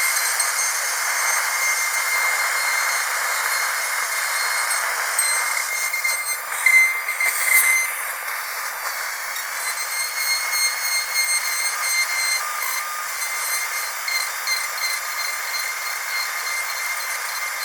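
High-speed dental drill whining steadily at a high pitch over a hiss, with a brief break and a sharper flare about seven seconds in.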